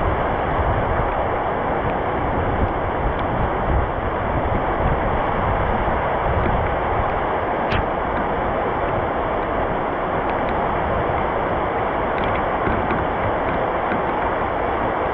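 Heavy rain falling steadily with wind, an even rushing hiss with a few sharp ticks of drops, the clearest about eight seconds in.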